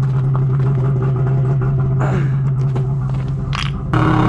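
Old Yamaha two-stroke snowmobile engine idling steadily, with light clicks and scrapes over it; near the end it gets louder.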